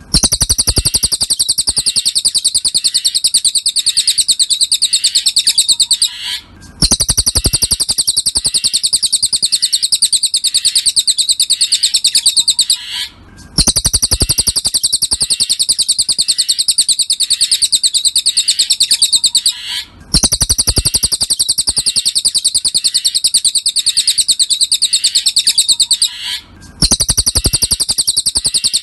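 A cililin songbird gives a rapid, continuous chattering trill. It comes in sections about six and a half seconds long, broken by brief gaps, as in a repeating bird-tutor recording.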